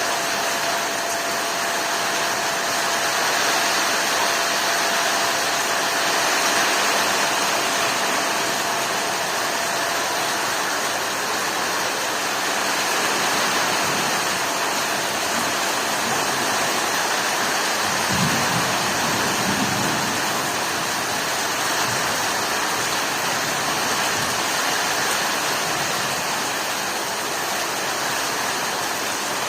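Heavy storm rain falling steadily: a dense, even hiss with no letup.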